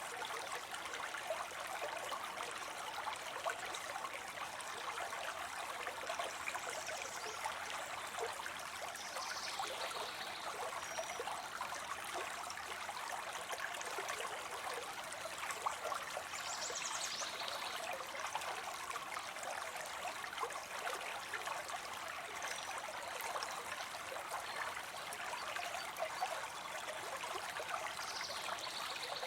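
Water spilling steadily into a pond, a continuous trickling splash of falling water.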